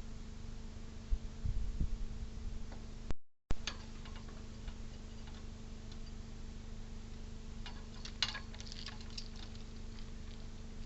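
Squirrel at a bird feeder: scattered light clicks and scratches on the feeder, with a few low thumps about a second and a half in and a cluster of clicks near the end, over a steady faint hum.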